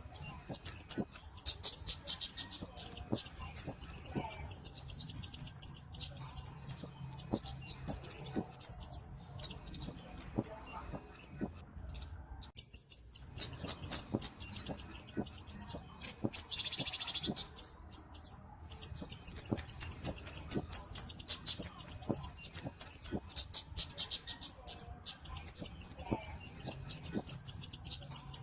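Flowerpecker (burung cabe-cabean) calling in long runs of fast, high-pitched ticking chips, with two short pauses, about 12 and 18 seconds in.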